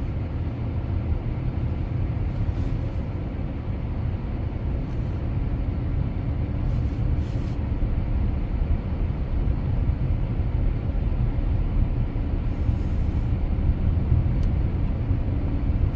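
Car driving slowly through deep snow, a steady low rumble of engine and tyres pushing through the snow-covered road.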